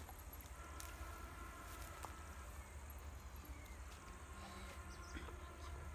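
Faint outdoor ambience: a low wind rumble on the microphone, with a few faint high calls held for a second or two and some small clicks.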